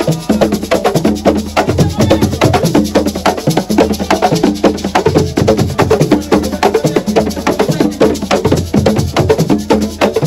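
Assiko drumming: a fast, dense run of sharp, wood-block-like percussion strikes over a steady low drum pulse.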